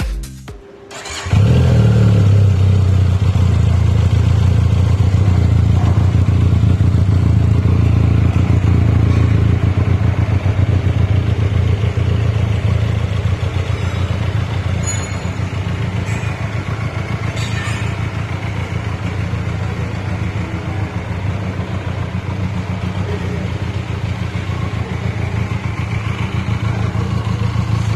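Benelli Leoncino 500's parallel-twin engine idling steadily through its stock exhaust. It comes in abruptly about a second in.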